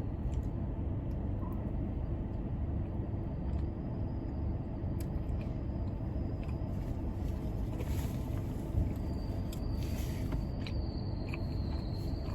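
Car air conditioning running steadily inside the closed car, a low even rumble, with a few faint clicks and smacks of chewing over it.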